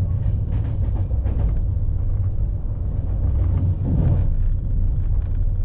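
Passenger train running along the track, heard from on board: a steady low rumble with faint scattered knocks and rattles.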